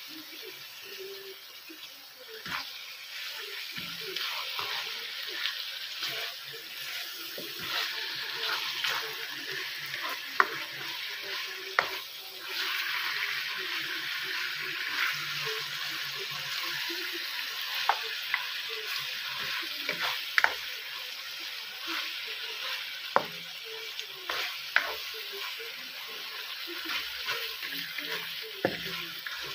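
Chicken pieces and diced onion sizzling in a frying pan, stirred with a spatula that clicks and scrapes against the pan now and then. The sizzle grows louder about twelve seconds in.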